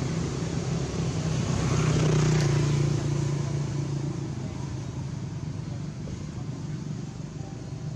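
A motor vehicle engine running, loudest about two seconds in and then slowly fading as it moves away.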